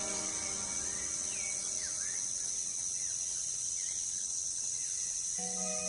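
Rainforest ambience: a steady high-pitched insect drone, with a few faint, short swooping calls in the first few seconds. Sustained music comes in near the end.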